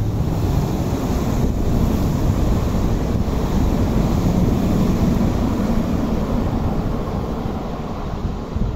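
MTR West Rail Line electric train running past on the tracks below, a low rumble that swells about halfway through, with wind buffeting the microphone.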